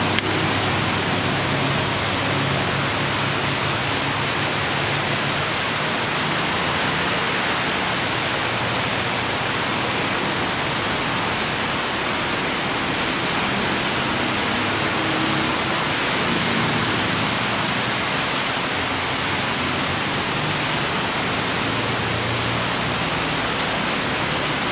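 Heavy rain pouring down steadily, a dense even hiss, with the faint low hum of cars passing on the wet road now and then.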